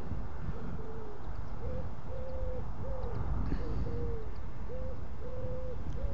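A bird's low hooting, cooing notes, repeated in a run with short gaps, some notes held longer than others, over a steady rumble of wind on the microphone.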